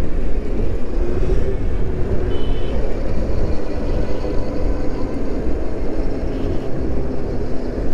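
Riding noise from an Onyx RCR electric moped at speed: steady wind rushing over the microphone, with road noise underneath.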